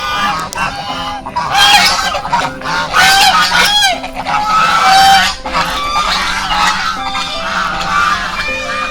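Repeated loud honking bird calls, short and gliding in pitch, loudest in the middle, over faint background music.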